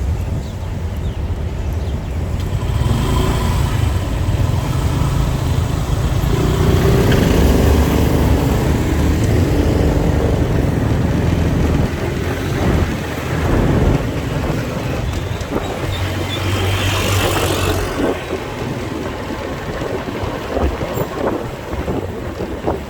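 Motorcycle engine running and road noise while riding through city traffic; the engine swells early on and settles, with a brief louder rushing hiss about two-thirds of the way through.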